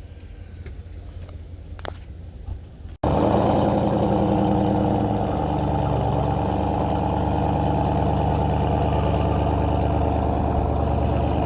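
Faint background with a few clicks, then after a sudden cut about three seconds in, a car engine running loudly and steadily at idle, its pitch shifting slightly soon after it comes in.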